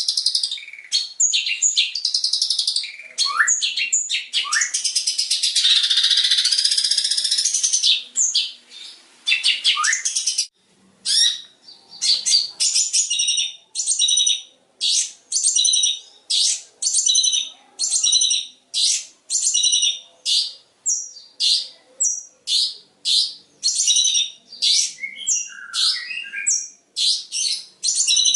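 Long-tailed shrike (cendet) singing: a fast, dense run of varied high notes with a continuous scratchy stretch in the first few seconds. About ten seconds in it turns to short sharp notes repeated about one and a half times a second.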